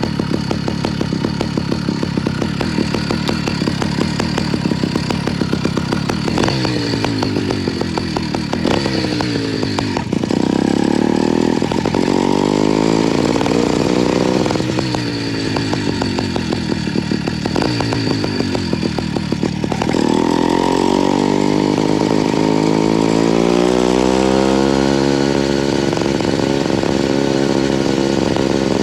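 Motorized bicycle's small engine running: uneven, low-speed pulsing at first, then revving up and dropping back several times, and climbing to a steady higher speed over the last several seconds.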